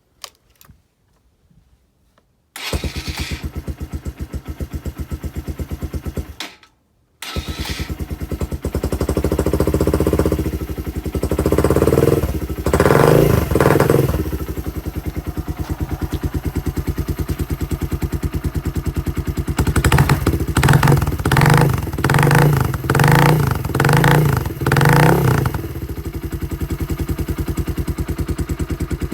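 Suzuki GN125H single-cylinder motorcycle engine idling through a bullet muffler. It starts about two and a half seconds in, drops out briefly around six seconds, then runs again. A few throttle blips come around ten to fourteen seconds, and a quick run of about six short revs comes around twenty to twenty-five seconds, before it settles back to a steady idle.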